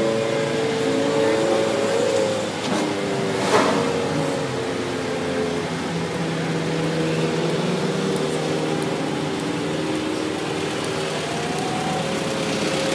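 Cars idling in a stationary queue, Ferraris among them, with several engine tones running steadily together. One engine's pitch rises briefly about a second in, and a short loud rush of noise comes about three and a half seconds in.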